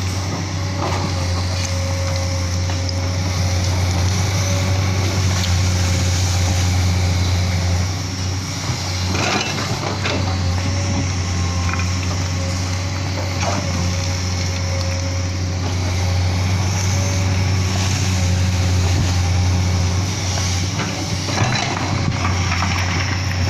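Hydraulic excavator's diesel engine running steadily, with a few short knocks around the tenth second and near the end.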